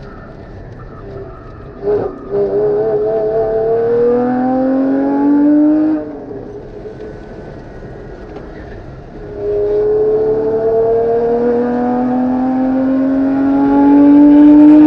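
Porsche GT4's flat-six engine on track under full throttle. It climbs steadily in pitch through a gear for about four seconds and drops off as the throttle lifts. After a few seconds of lighter running it pulls hard again, rising in pitch for about six seconds down the straight.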